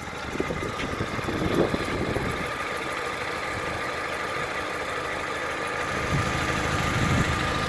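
1991 Toyota Tercel's four-cylinder engine idling steadily, still running after the car was flooded halfway up its body.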